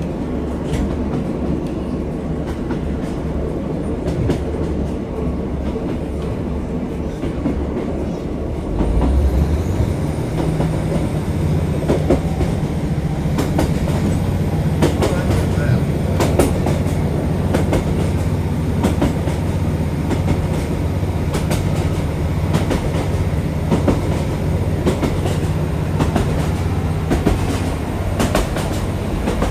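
Diesel passenger train heard from inside the carriage as it runs along the track, with scattered clicks of the wheels over rail joints. About nine seconds in, the low engine rumble grows louder and stays up.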